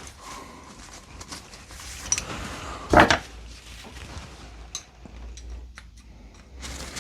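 Metal parts of an F wrench being handled and fitted back together, its pin going back in: light clicks and taps, with one loud knock about three seconds in and a few sharp ticks near the end.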